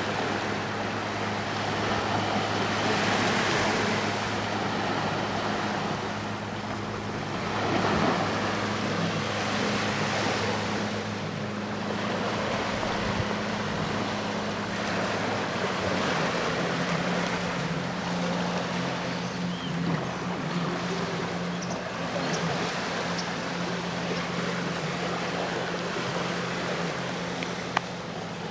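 Sea waves washing onto the shore at Enoshima, surging and falling back every few seconds, over the steady low hum of a passing boat's engine, whose pitch shifts about halfway through.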